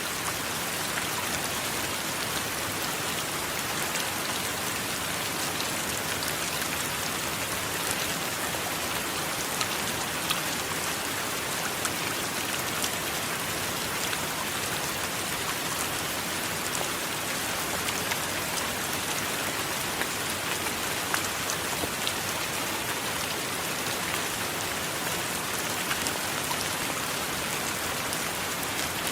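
Steady heavy rain, an even hiss with close drops ticking on a hard surface.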